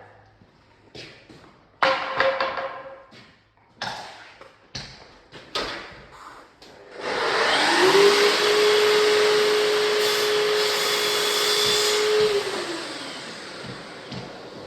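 Several sharp knocks, then an electric motor spins up about halfway through, runs steadily for about five seconds and winds down.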